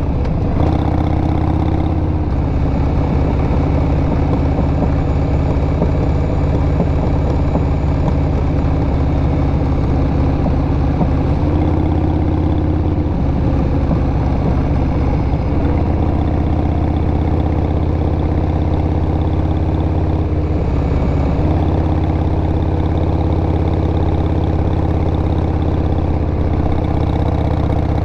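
2002 Harley-Davidson XL883R Sportster's 883 cc air-cooled V-twin running loud through aftermarket Cobra Speedster Short mufflers. The engine note holds steady for stretches and steps up and down in pitch several times as the throttle and engine speed change.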